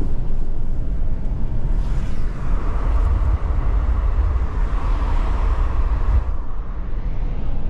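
Car driving, with a steady low rumble of engine and road. A hiss swells and fades between about two and six seconds in.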